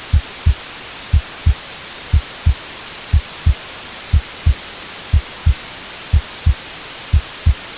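Heartbeat sound, a low double thump about once a second in a steady slow rhythm, over continuous white-noise hiss.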